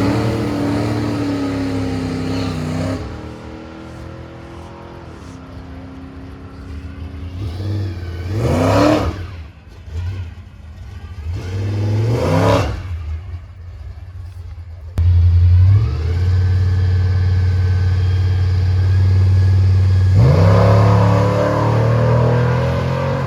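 Drag-racing engines: a loud engine easing off early on, then two quick revs a few seconds apart. A sudden jump follows to a loud, steady engine note, which starts climbing again near the end.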